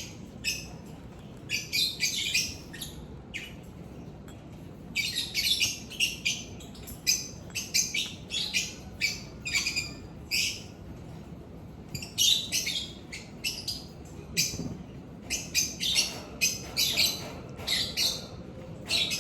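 Lovebirds chirping: quick runs of short, high chirps in bouts, with pauses of a second or two between them.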